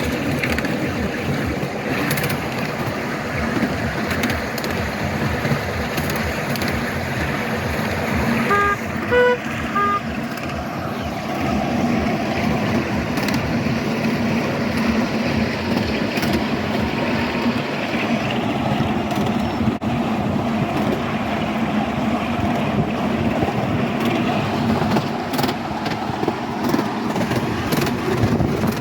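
Miniature park railway train running along the track, a steady noise with frequent small clicks. About nine seconds in, the locomotive gives three or four short toots of its horn.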